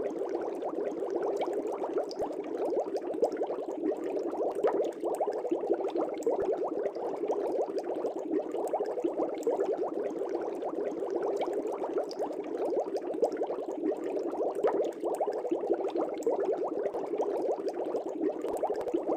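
Aquarium air bubbles rising and breaking at the surface of a fish tank: a steady, dense bubbling of many small pops.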